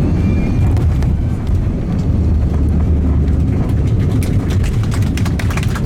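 Airbus A321 cabin noise: the aircraft's steady, loud low rumble. About two-thirds of the way in, a quick run of rattling clicks joins it.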